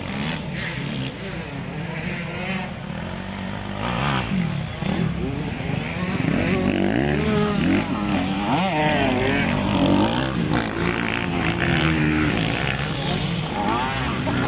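Several racing dirt bike engines revving up and down through the gears, their pitches overlapping as they accelerate and back off, growing louder about six seconds in.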